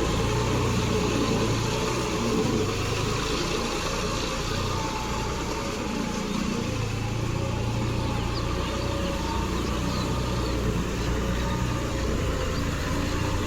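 John Deere 5310 tractor's three-cylinder diesel engine running steadily, its note easing briefly about five seconds in and then picking up again.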